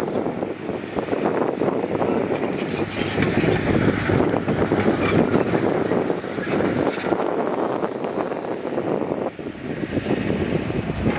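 Heavy diesel earthmoving machinery running, with metallic rattling and scattered clanks and knocks; the noise eases briefly about nine seconds in, then picks up again.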